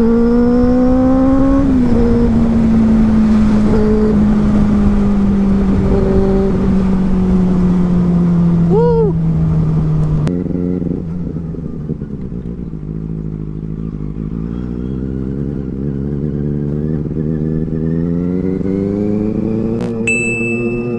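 Benelli 600i superbike's inline-four engine on the move. Its revs rise briefly at the start, then fall steadily for about eight seconds as it rolls off, and climb gradually again over the last third. A brief high chirp comes about nine seconds in.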